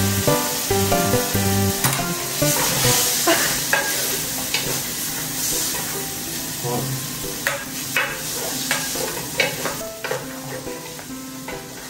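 Spaghetti with bacon and chili sizzling in an electric pan as it is stirred and tossed with a wooden spatula, with irregular clicks and scrapes of the spatula against the pan.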